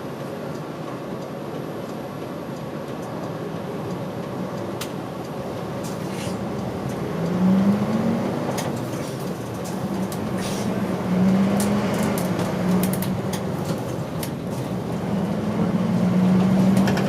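An older route bus's diesel engine running, heard from inside the cabin. A low drone swells in level three times as the engine pulls under load, with light rattles from the body.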